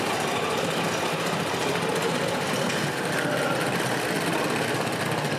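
Small electric motors and gearboxes of radio-controlled scale trucks and construction machines running steadily, a busy mechanical whirring with a faint pitched whine.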